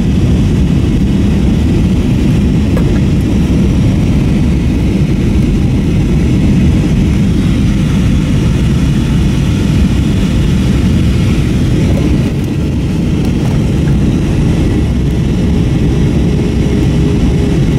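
Steady low cabin roar of an Airbus A321-232 in flight, from its IAE V2500 engines and the airflow, heard from a seat toward the rear of the cabin. The level dips slightly about twelve seconds in.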